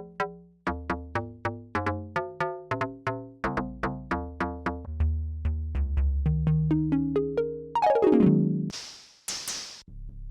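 Synth preset demo on the Polymax software synthesizer: a sequenced pattern of short plucky notes, about four a second, over held bass notes. Near eight seconds in a falling pitch sweep is followed by two short bursts of noise.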